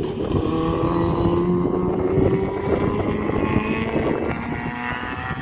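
Racing car engines running hard at full throttle, one engine's note climbing slowly as the car accelerates.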